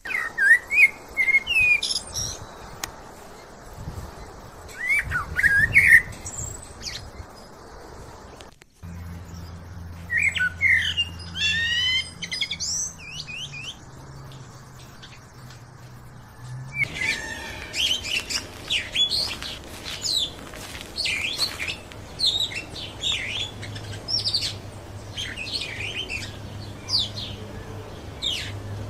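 Several birds chirping and calling, many short whistled notes one after another, over a low steady hum in parts. The sound breaks off briefly about nine seconds in and changes again about seventeen seconds in.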